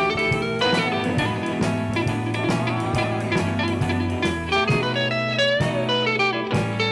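1960s British R&B band recording with no vocals: an instrumental passage led by guitar over a steady backing.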